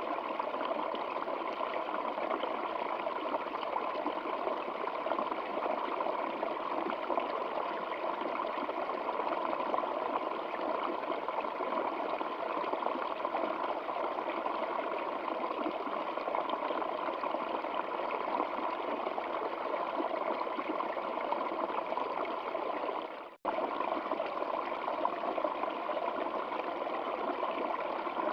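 Stream water flowing steadily, an even rushing babble. It cuts out for a split second about 23 seconds in, then carries on unchanged.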